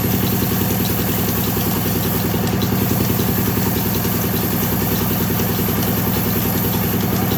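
Sawmill machine running steadily: an even, engine-like drone with a fast pulsing beat and a faint, regular light ticking about three times a second.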